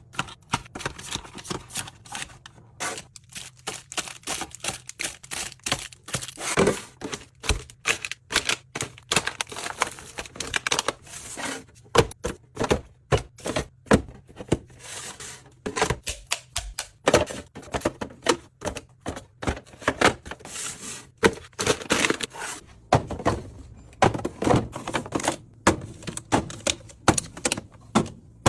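Groceries being put away in a fridge: containers, jars and bottles set down on shelves and in bins, an irregular run of clicks, taps and knocks, several a second.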